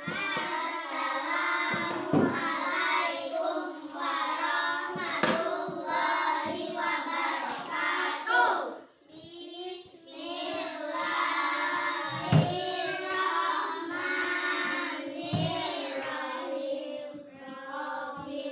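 A group of children singing a song together, with a few sharp claps spaced a few seconds apart and a short break in the singing about halfway through.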